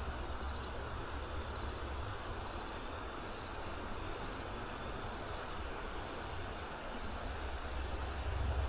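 Small creek running steadily, with a low rumble underneath and a faint high chirp repeating a little more than once a second.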